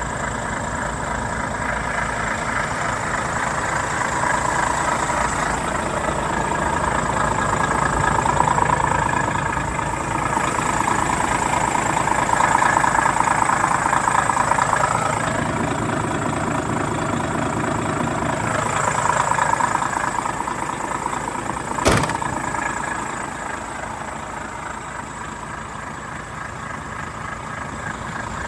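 Volvo FH 460 truck's 13-litre six-cylinder diesel idling steadily, swelling in level a few times, with one sharp knock about three-quarters of the way through.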